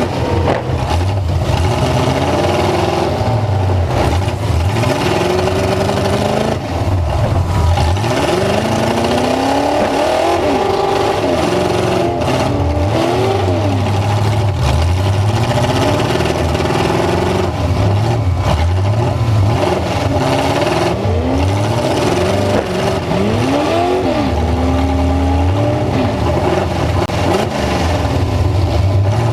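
Full-size pickup truck engine running hard and revving, its pitch rising and falling again and again.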